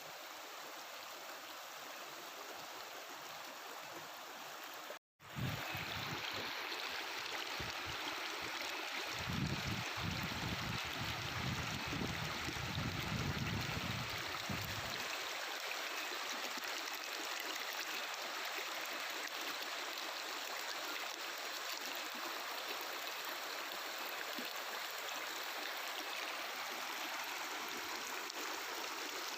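Mountain river running over rocks: a steady rushing, babbling flow of water. About five seconds in it cuts out for a moment and comes back a little louder, and a low rumble rises under it for several seconds in the middle.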